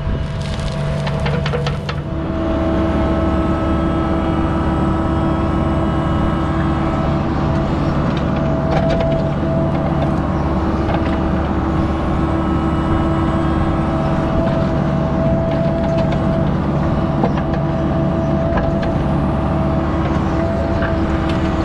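Diesel engine of a construction machine running steadily under load, with a steady high whine on top.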